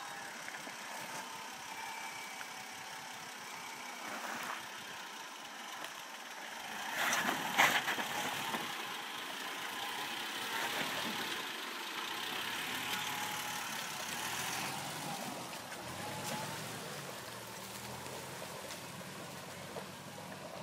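Four-wheel-drive vehicle's engine running as it works through a creek crossing, growing louder for several seconds from about a third of the way in, with a short sharp burst at the start of that louder stretch.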